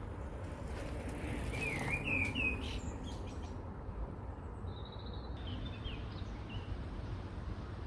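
Small birds chirping in short wavering calls, loudest about two seconds in, with a brief high note near the middle, over a steady low background rumble.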